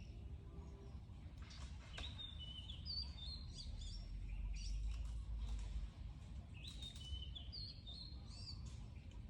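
Small birds chirping in short, repeated high notes, over a steady low rumble of outdoor background noise, with a few brief clicks.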